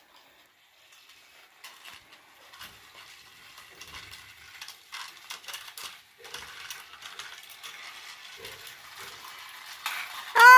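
Faint, scattered light clicking and rattling of a plastic toy train set, with its engines and track pieces knocking together.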